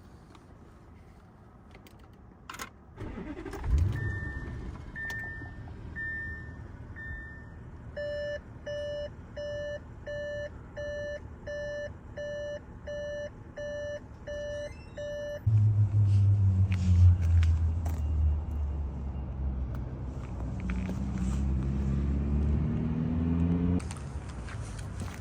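A thump, then the Audi A8 L's dashboard warning chime sounding about once a second, then switching to a faster, higher multi-tone chime. About two-thirds of the way in, the 4.0 L twin-turbo V8 starts and runs at idle, its pitch creeping up and then dropping back near the end.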